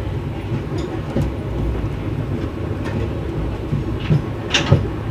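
Moving passenger train's wheels rumbling steadily on the track with scattered clicks, and one sharper, louder clack near the end.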